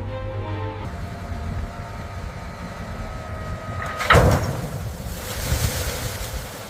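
A thin steady tone, then a single heavy metallic clank about four seconds in that rings briefly, followed by a rushing, surf-like noise.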